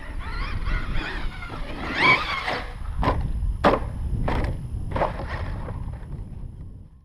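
Losi LST XXL2-E electric RC monster truck running: its brushless motor whines up and down with the throttle over rolling tyre noise, then several sharp knocks come in the second half, as the truck hits bumps and lands.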